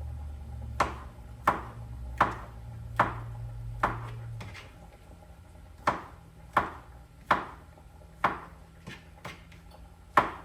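Knife slicing mushrooms and striking a cutting board in evenly paced chops, roughly one every 0.7 seconds, with a short pause midway. A low hum underneath stops a little before halfway.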